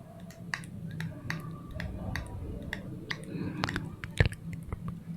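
A quick, irregular series of sharp clicks and taps, about three a second, with one louder click a little after four seconds in, over a low steady hum.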